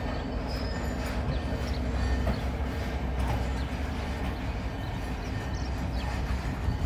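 Passenger train moving along the track: a steady low rumble with faint clicks and a few brief high squeals.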